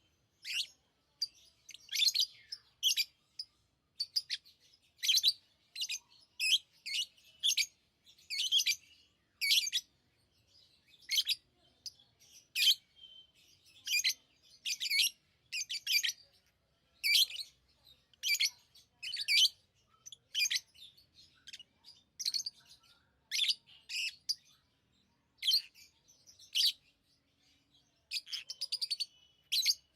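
Lovebirds chirping: short, shrill high calls in quick bursts, about one or two a second with brief gaps between.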